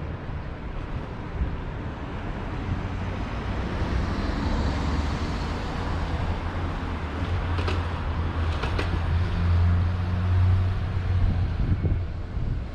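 Diesel train passing over a level crossing: a low engine drone and rail rumble that build to their loudest near the end, with a few sharp clicks of wheels over the rails about eight seconds in.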